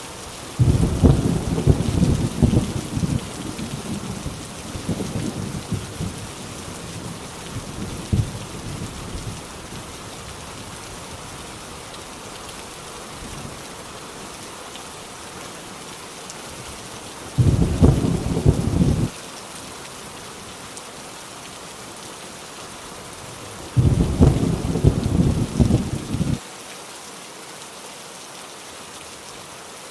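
Heavy rain drumming steadily on a tin roof, with three rolls of thunder: a long one at the start that dies away over several seconds, and two shorter ones later that each stop abruptly.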